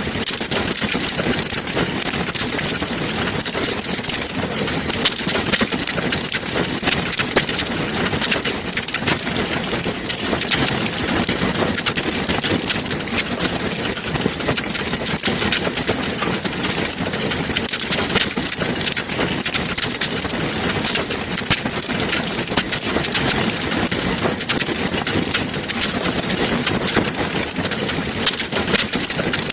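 Wood fire crackling in a fireplace: a steady hiss crowded with small pops and snaps.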